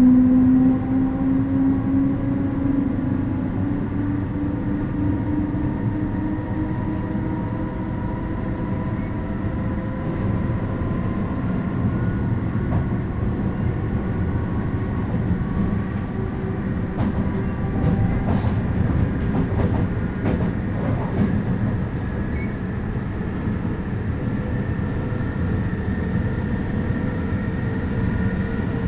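Steady industrial machinery rumble with droning hum tones that slowly rise in pitch, and a scatter of light metallic clicks and clanks about two-thirds of the way through.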